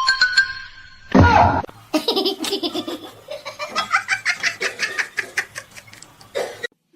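A person laughing hard in quick, rhythmic bursts. A short loud sound comes about a second in.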